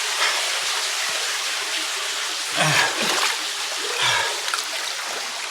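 A person splashing through deep water in a canyon pool against a steady rush of water, with short falling grunts or gasps about two and a half and four seconds in.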